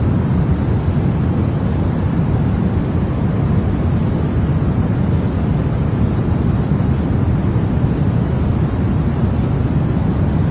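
Continuous white-noise track for baby sleep: an even, unchanging rush, heavier in the low end than in the hiss.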